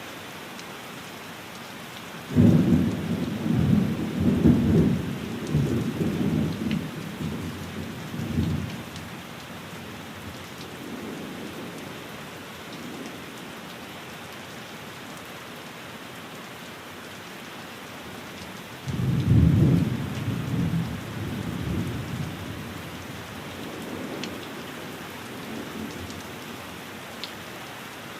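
Steady rain on a window with two rolls of thunder: the first breaks suddenly about two seconds in and rumbles on for several seconds, and the second comes about two-thirds of the way through and fades out in lighter rumbles.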